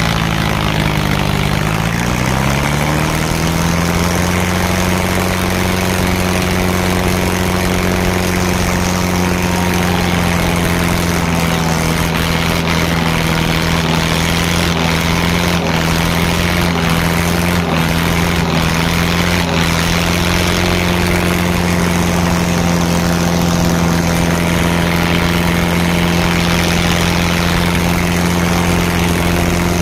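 Tractor diesel engine running loud at high, steady revs. Its pitch sags briefly about a second in and then climbs back up and holds.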